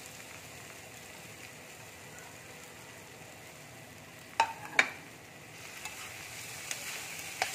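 Soya mince and boiled potato frying in a pan with a light sizzle while a metal spatula stirs and scrapes. About four and a half seconds in, the spatula strikes the pan twice in quick succession with sharp clinks.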